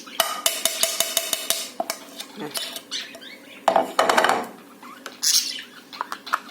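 A spoon tapping and scraping against a dish: a quick run of small clicks in the first couple of seconds, then a few louder scrapes.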